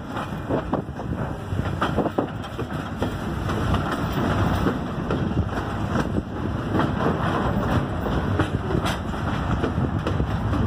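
Railway cars of a passing train rolling by: a steady rumble with repeated clacks of wheels over the rail joints, and wind buffeting the microphone.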